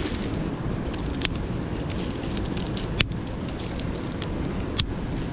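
A small wood fire in a titanium wood stove, burning damp wood, gives three sharp pops over the steady rush of a mountain stream.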